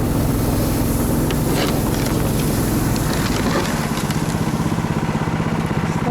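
Small engine of a motorized snow tow (motorized dog sled) running steadily while being driven.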